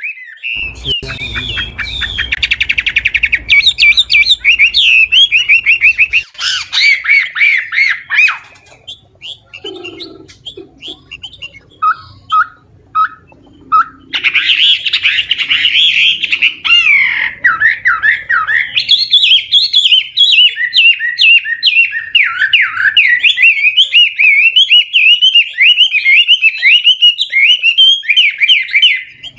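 An old wild-caught Chinese hwamei singing loudly in long runs of rapid repeated whistled notes and trills, changing its phrases often. About a third of the way through it drops to a few soft scattered notes, then sings on almost without a break.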